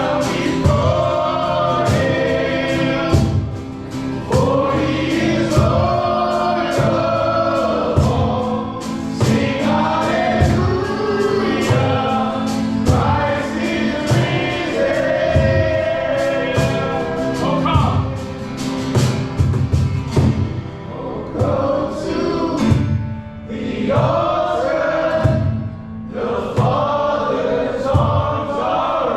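Worship song: a group of voices singing over a band, with a steady drum beat.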